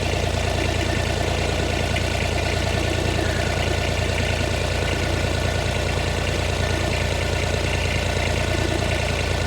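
Side-by-side utility vehicle's engine idling steadily.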